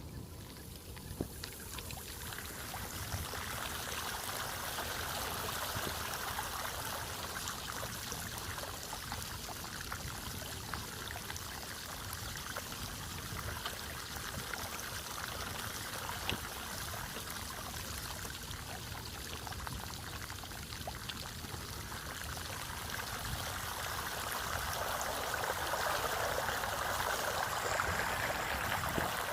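Floodwater running steadily, a constant rushing that grows louder near the end.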